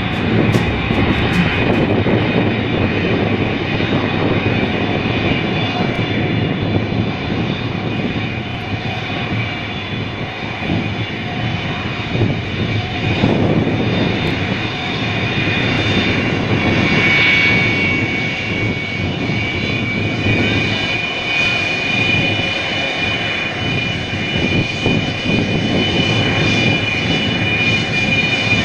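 Large airplane's engines running with a steady rumble and a high whine over it.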